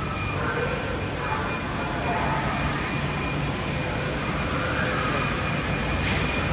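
Steady idling engine hum with a thin, constant high-pitched tone over it and faint wavering sounds in the background.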